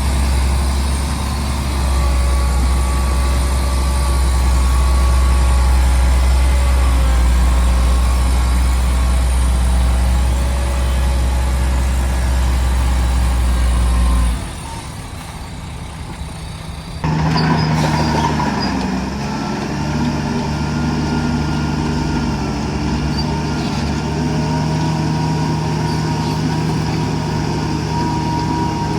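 Heavy diesel earthmoving machinery engines running steadily, with a deep, loud hum. About 14 seconds in, the deep hum cuts off and the sound turns quieter. About 3 seconds later a different engine note, with a steady whine, takes over.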